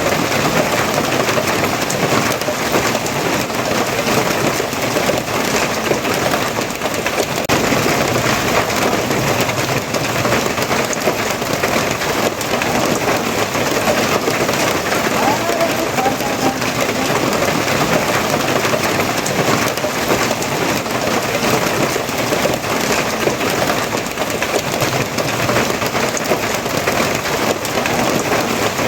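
Steady rain falling, a dense even patter that holds at the same level throughout with no letup.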